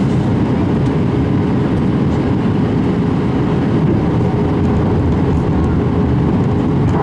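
Airbus A319 airliner noise: a steady low drone from the jet engines and airflow, with one constant tone held above it.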